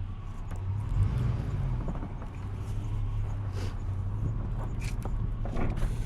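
Snowplow truck's engine running steadily under load as it pushes snow, a low drone, with a few light clicks and knocks scattered through it.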